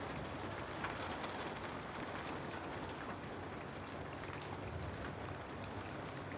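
Steady rain ambience: an even hiss of falling rain with many small, scattered drop ticks.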